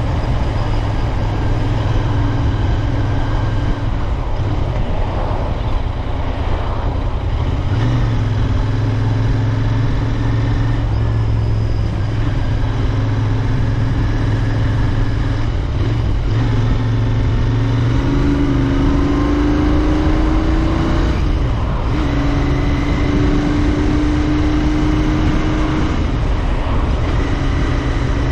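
Royal Enfield Interceptor 650's parallel-twin engine running while riding. Its note holds steady at first, then shifts several times, with rising pitch glides in the second half.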